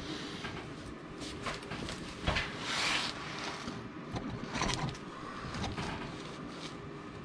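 Scattered handling noises: light clicks and knocks, with a short rustle about three seconds in.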